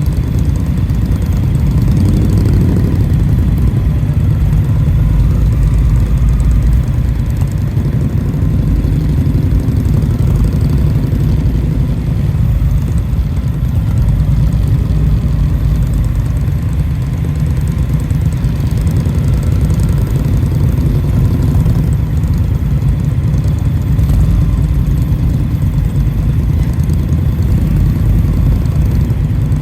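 Indian motorcycle's V-twin engine running steadily while riding, mixed with heavy low wind rumble on the microphone.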